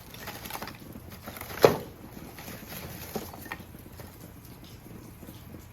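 Pieces of charcoal being dropped into a fire pit: scattered light clicks and knocks, with one sharper clack about one and a half seconds in and a couple of smaller ones a little later.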